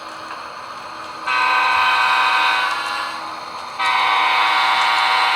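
HO-scale model diesel locomotive's sound decoder sounding its multi-chime horn: two blasts of about a second and a half each, with a short gap between, over a faint steady hum.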